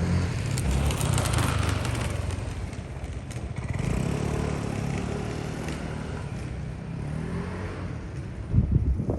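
A motor vehicle's engine passing, a low hum whose pitch rises a few seconds in and again later. A burst of wind on the microphone near the end is the loudest sound.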